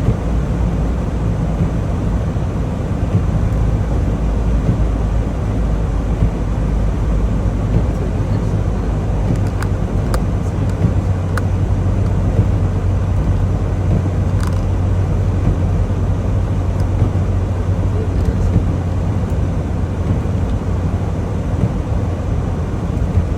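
Steady low drone of a semi truck's engine and road noise while driving, with a few faint clicks about halfway through.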